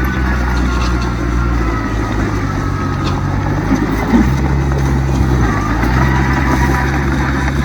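Heavy diesel earthmoving machinery running steadily, its engine note stepping up and down a few times, with a faint higher whine over it.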